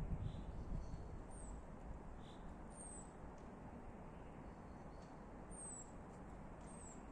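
Faint outdoor background noise with a few short, high, falling chirps of small birds.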